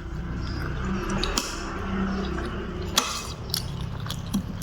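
Eating sounds from a bowl of curry: a utensil clicks sharply against the dish three times, about a second and a half in and twice near three seconds, over soft liquid sounds of the broth.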